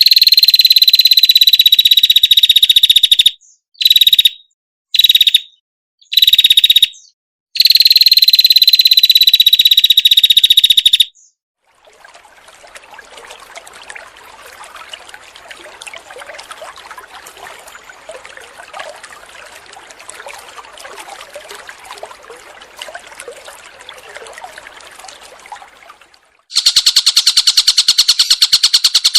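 Recorded cage-bird song in edited clips. First comes a loud, high, rapid trill in bursts. A quieter, dense, scratchy chatter follows. About 26 seconds in, another loud, rapid, high trill begins.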